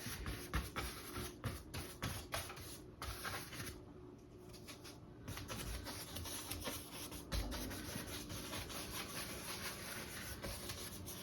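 Paintbrush rubbing acrylic paint onto a stretched canvas: faint, repeated scratchy strokes, with a short lull about four seconds in.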